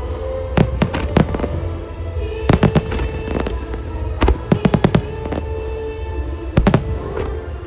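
Aerial firework shells of a music-synchronised starmine bursting with sharp bangs over music from the show's loudspeakers: single reports about half a second and a second in, a quick volley of four at about two and a half seconds, a fast run of about six a little after four seconds, and a close pair near the end.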